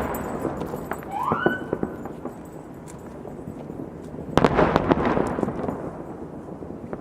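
Firecrackers going off in fast, dense crackling bursts: one tails off at the start and another bursts about four and a half seconds in for about a second. A short rising whistle sounds about a second in.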